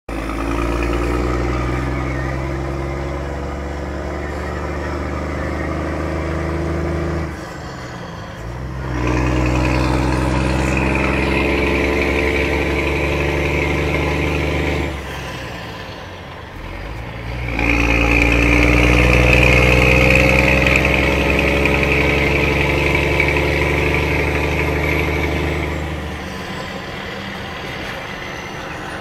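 Scania truck engine revved and held up three times for several seconds each, dropping back toward idle between, and idling near the end.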